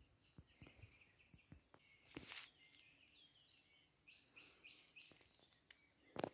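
Faint songbird singing: a string of short chirps, then a run of about five falling notes. A few faint knocks and a short rustle about two seconds in.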